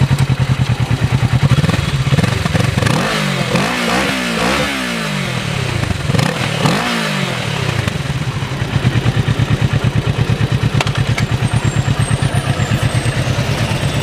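Motorcycle engine idling with a steady pulsing note, revved up and down several times about three to seven seconds in, then settling back to idle.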